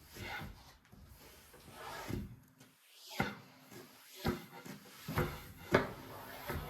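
Kitchen handling sounds: a string of separate short knocks and clacks about a second apart, with the sharpest one near the end, like cupboard doors, drawers or utensils being set down.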